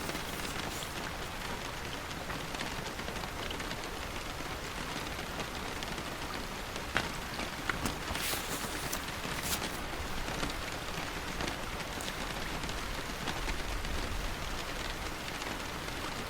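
Steady rain falling, an even hiss. A few brief, crisp ticks or rustles stand out about halfway through.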